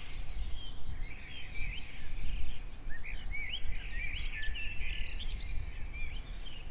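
Forest ambience: many small birds chirping with short, quick calls that rise and fall, over a steady low rumble.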